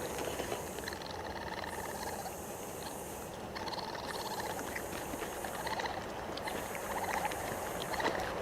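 Raccoon calls: several short, pulsed chittering calls over a steady hiss.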